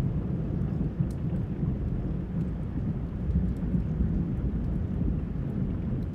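Low rolling thunder rumble over steady rain, with scattered small sharp crackles from the fireplace sound mixed in.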